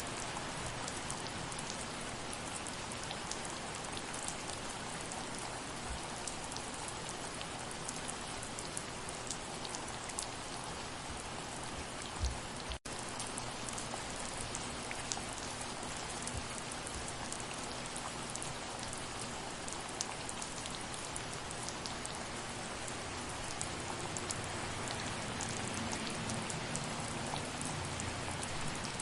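Steady soft rain: an even hiss dense with fine drop ticks. About twelve seconds in there is one soft low thump, then a split-second gap in the sound.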